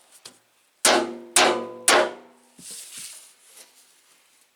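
Sledgehammer striking a metal truck fender three times, about half a second apart, each blow ringing briefly and dying away, followed by a few faint knocks.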